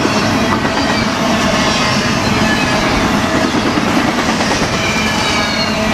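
Double-stack intermodal freight train's container-laden well cars rolling past: a loud, steady rumble and rattle of steel wheels on the rails, with a faint high-pitched wheel squeal.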